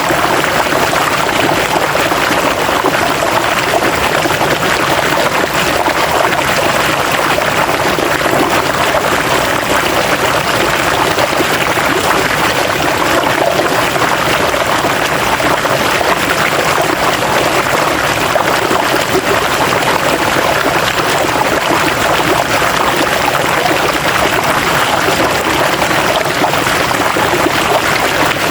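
River water rushing and splashing over rocks, a steady continuous flow.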